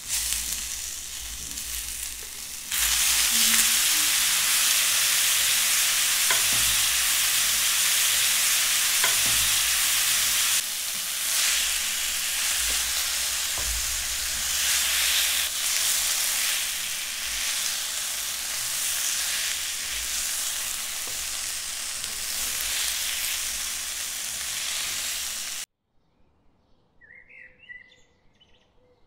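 Prawns frying in a pan of oil and red chilli masala: a steady hissing sizzle, with a few light taps of a spatula as they are stirred. The sizzle cuts off suddenly near the end.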